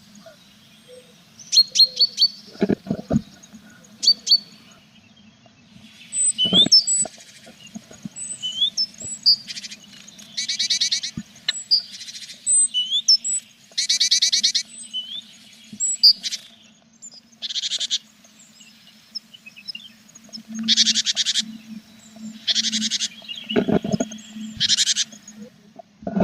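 Tit nestlings in a nest box calling in repeated high, buzzy bursts of about half a second to a second each, typical of begging, with thin rising peeps between. Three dull thumps inside the box come about three seconds in, about six seconds in, and near the end, over a low steady hum.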